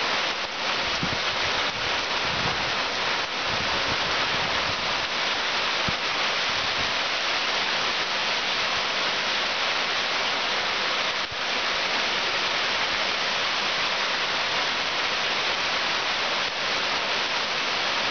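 Heavy rain falling in a steady, even hiss. Over roughly the first seven seconds, gusts of wind add irregular low rumbles on the microphone.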